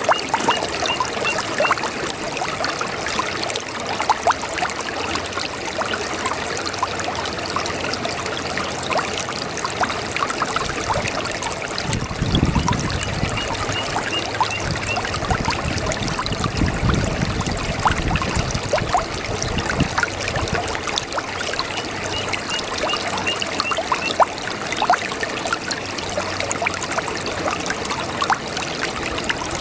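Small brook babbling: steady trickling, bubbling water with many small splashes. A low rumble swells in the middle, and a faint run of quick high chirps comes and goes three times.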